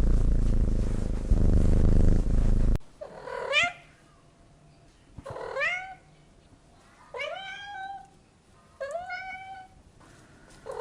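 Domestic cat purring as a steady low rumble for nearly three seconds, cut off abruptly, then a cat meowing four times about two seconds apart, each meow rising in pitch, with another meow starting at the end.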